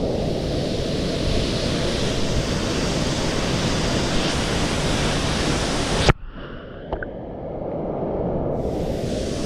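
Steady rush of a waterfall's falling water. It cuts off suddenly about six seconds in and gives way to a quieter, thinner rushing noise with a brief click a second later.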